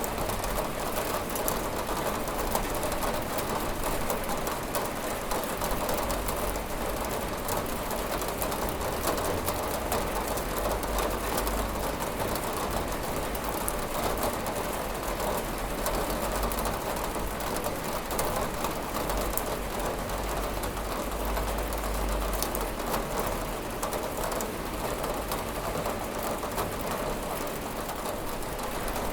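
Steady rain on a window: an even hiss of rainfall with many small drop ticks, over a low rumble.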